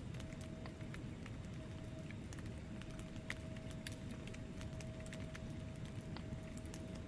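Wood fire burning in a fireplace: logs crackling with frequent small irregular pops over a low steady rumble of the flames, with a thin steady hum underneath.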